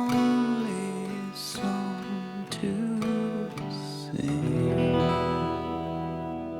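Acoustic guitar music from a slow song: plucked and strummed chords, ending about four seconds in on a final chord that rings on and slowly fades.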